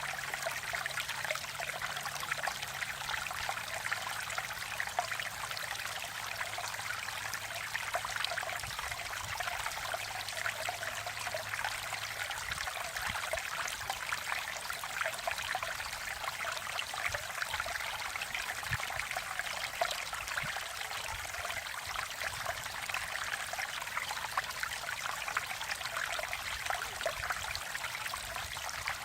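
Mountain valley stream flowing steadily, the water trickling and babbling in a continuous rush.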